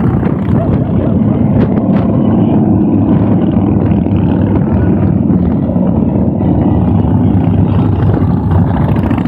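Many motorcycles passing one after another, their engines running together in a loud, steady din.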